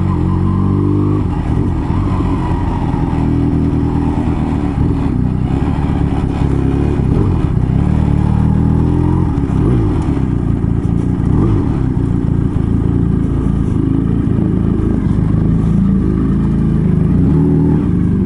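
Motorcycle engine running while riding, its revs rising and falling several times.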